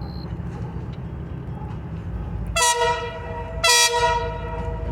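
Diesel locomotive horn, likely on the ČKD locomotive hauling the passenger train, sounding twice: a short blast and then a longer one, both a chord of several tones. A steady low rumble runs underneath.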